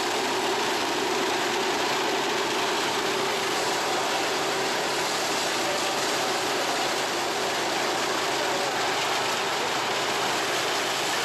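Mini rice combine harvester running steadily, its engine and machinery giving a constant hum and rattle without change in speed.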